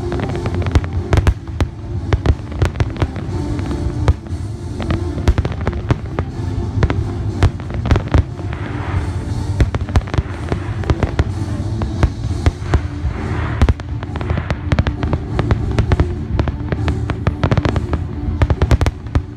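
Aerial firework shells bursting in rapid, dense succession, many sharp bangs one after another over a continuous low rumble, with bursts of hissing crackle twice in the middle.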